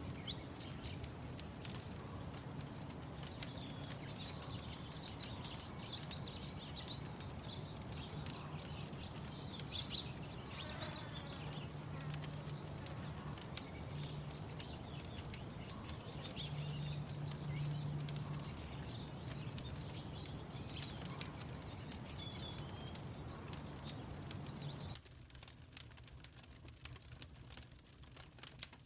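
Songbirds chirping over a steady low hum, with scattered sharp crackles of a wood fire. Near the end the hum and birds drop away suddenly, leaving only the fire crackling.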